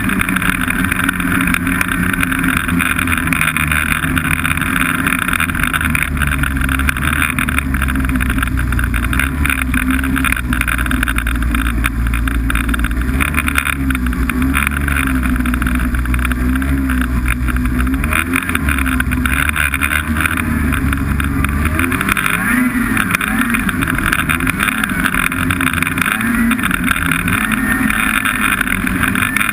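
Snowmobile engine running steadily while riding, its pitch starting to waver up and down about two-thirds of the way through.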